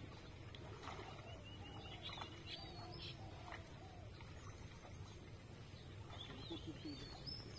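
Birds chirping and calling in many short calls that glide up and down, faint over a low steady background noise.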